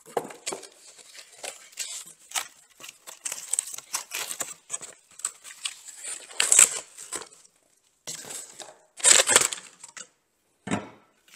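Packing material rustling and crinkling as parts are unwrapped and lifted out of a box, in irregular bursts with a couple of louder rustles and a short knock near the end.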